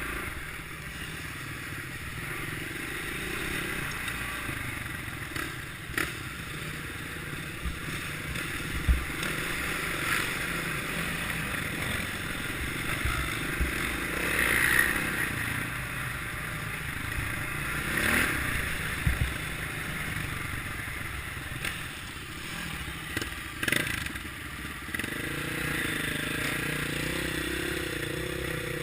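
Kawasaki KLX650R's single-cylinder four-stroke engine running on an off-road ride, with a few sharp knocks and clatter from the bike over rough ground. Near the end the engine note becomes steadier and clearer.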